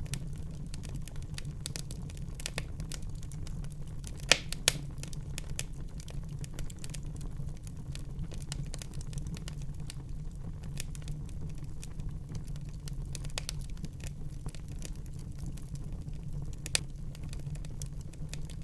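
Wood fire burning in a fireplace: a steady low rumble of the flames with scattered crackles and snaps, and a few louder pops, two close together about four seconds in and another near the end.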